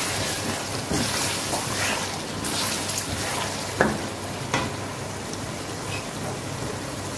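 Chicken masala sizzling as it fries in a stainless steel karahi, stirred with a wooden spatula, with a few sharp knocks of the spatula against the pan, the loudest about four seconds in.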